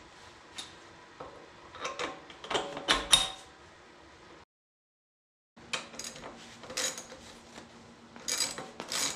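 Steel bolt and hand tools clinking and knocking against an excavator's bucket ram mount as the bolt is put in, in short irregular strikes. The sound drops out completely for about a second just after the middle, then the clinking resumes.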